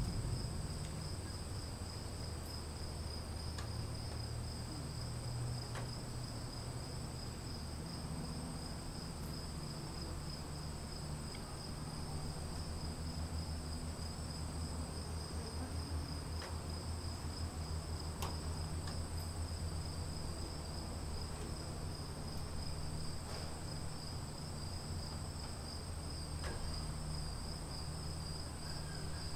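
Crickets chirping in a steady, continuous high trill, over a low, steady rumble of a distant storm, with a few faint scattered ticks.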